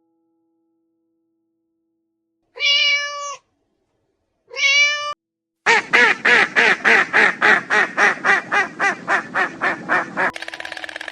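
Animal calls: two short pitched calls a couple of seconds apart, then a long call that pulses rapidly, about four pulses a second, for several seconds.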